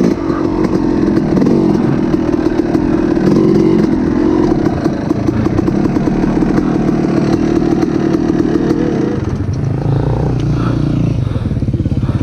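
A small engine running fast and wavering in pitch, then dropping about nine seconds in to a lower, evenly pulsing idle.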